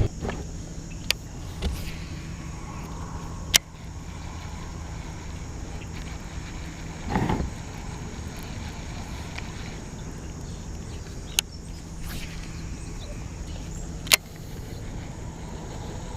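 Electric trolling motor on a kayak running with a steady low hum. A few sharp clicks or knocks come through it, and there is a short louder rush about seven seconds in.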